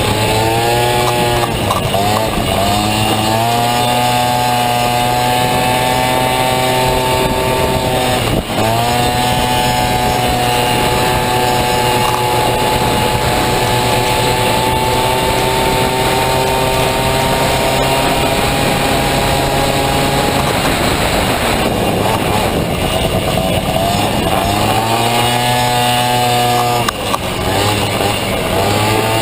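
Honda Motocompo scooter with a swapped-in Honda Dio two-stroke engine, run hard on a race track: the engine note climbs as the throttle opens and holds high, drops sharply about a third of the way in, and falls away again near the end before climbing back up.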